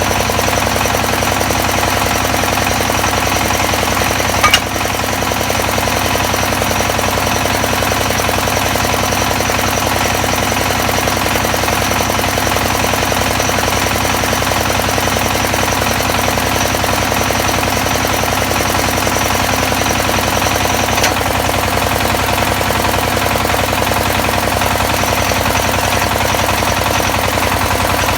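XY-1B well-drilling rig running steadily with a rapid, even mechanical clatter, with one sharp knock about four and a half seconds in and a lighter one near the end.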